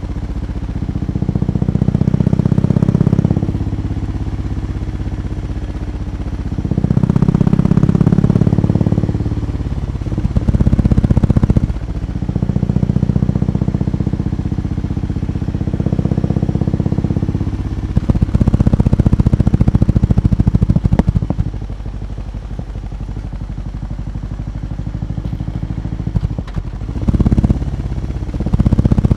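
BMW R18 B's 1802 cc boxer twin running with its exhaust, revved up several times in swells of one to three seconds and settling back to a lumpy idle between.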